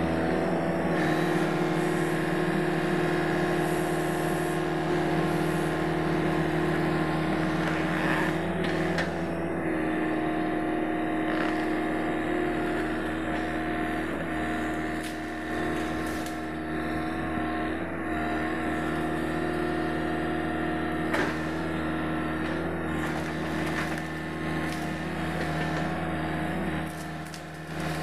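Sany SY75C excavator's diesel engine running steadily under working load, its pitch dipping briefly now and then, with a few sharp knocks scattered through.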